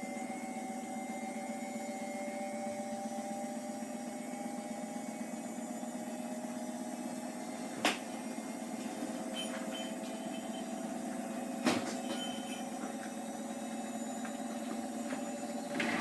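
Hotpoint HE8L493 washing machine running mid-cycle on Fastwash Eco, a steady motor hum with a few tones that drift slowly in pitch. Two sharp clicks come about 8 and 12 seconds in.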